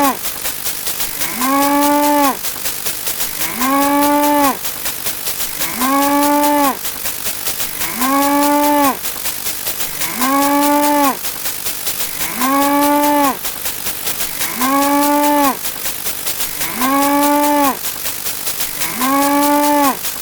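Cow mooing sound effect played over and over, one short moo about every two seconds, with a faint fast ticking underneath.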